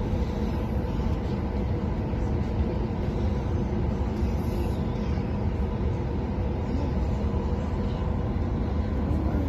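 Passenger train running, heard from inside the carriage: a steady low rumble of wheels and running gear, with a faint constant hum over it.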